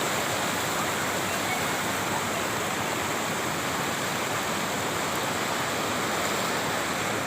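Waterfall rushing steadily: a continuous roar of falling, strongly flowing water.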